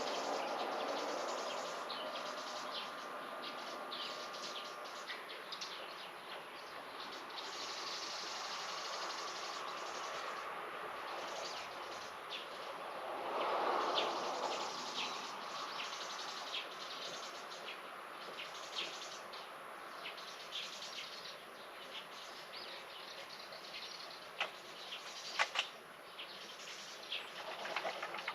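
Outdoor garden ambience: scattered short bird chirps over a steady background haze, with a brief swell of noise about halfway through and a few sharper chirps near the end.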